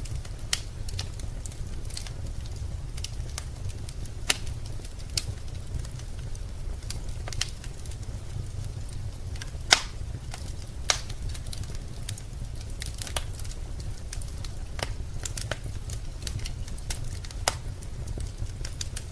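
Wood fire burning in a fireplace: sharp pops and crackles at irregular intervals, one louder pop about halfway, over a steady low rumble of the flames.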